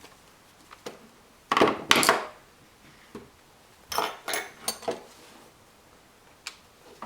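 Metal faucet parts clattering and knocking against a hard work surface as they are handled and set down: two bursts of clinks and knocks about a second and a half and four seconds in, with a few lighter clicks between.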